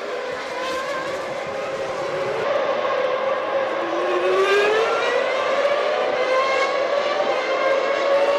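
Formula One cars' V10 engines running at high revs, one of them rising in pitch as it accelerates about four seconds in, with the engine note steady again afterwards.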